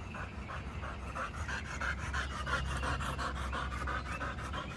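A dog panting rapidly in an even rhythm of short breaths.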